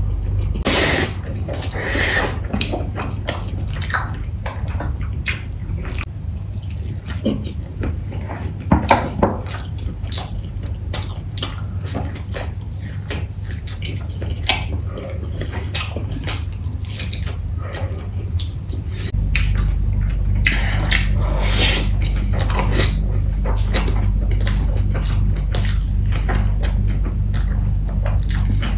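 Close-miked eating: chewing, wet lip smacks and mouth clicks as a person eats spicy chicken and biryani by hand, over a steady low hum that gets louder about two-thirds of the way through.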